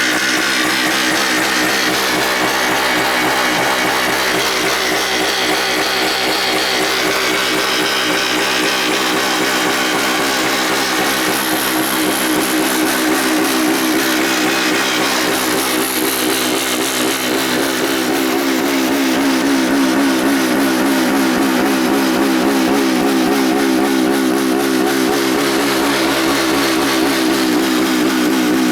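Suzuki TS400 Hustler's air-cooled two-stroke single-cylinder engine idling steadily, getting slightly louder a little past halfway.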